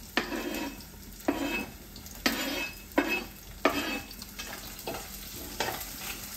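Shallots, ginger, garlic and chillies sizzling in coconut oil in a clay pot while a metal spatula scrapes curry leaves and chopped kanthari chillies off a cutting board into it, with five sharp clacks at roughly one-second intervals over the first four seconds. Softer stirring ticks follow near the end.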